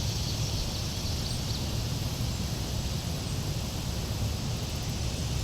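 Outdoor ambience by the water: a steady low rumble and a high hiss, with a bird chirping in quick short notes during the first second.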